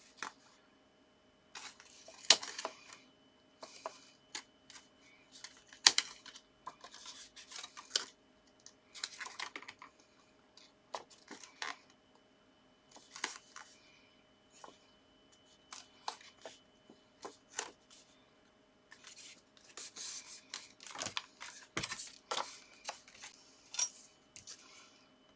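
Paper and card being handled on a craft desk: irregular rustles and crinkles broken by sharp taps and clicks.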